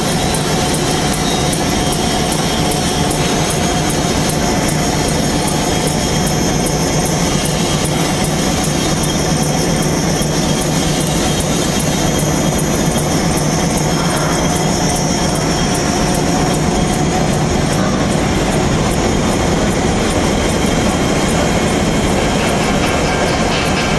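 Portable on-site milling machine running steadily, its cutter machining the steel rails of a spud carriage, with some faint steady tones in the noise.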